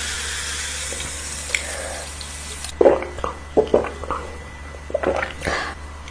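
A steady rushing hiss for about the first three seconds, then a string of short, wet eating sounds from someone chewing and smacking a mouthful of food.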